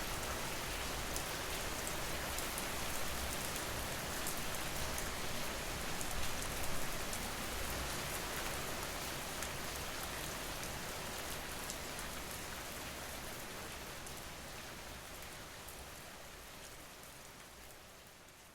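Steady rain falling on a surface, with a fine patter of individual drops; it fades out gradually over the last several seconds.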